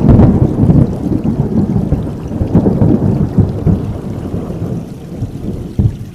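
Rolling thunder that gradually dies away over rain, with one brief louder rumble near the end.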